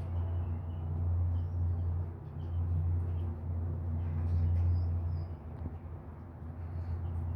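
A low steady rumble, swelling and dipping, with a few faint short chirps from a pet cockatiel above it.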